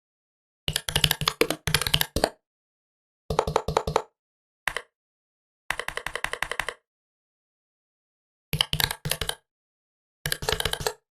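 Laptop keyboard typing in six short bursts of key clicks with silent pauses between. One burst near the middle is an even run of about ten keystrokes a second.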